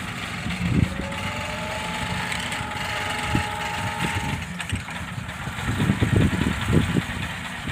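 Tractor engine running steadily at idle, with several low thumps in the last couple of seconds.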